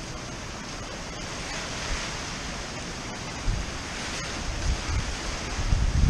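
Heavy surf rushing in a tropical-storm wind, with gusts buffeting the microphone in low rumbles that grow stronger in the second half.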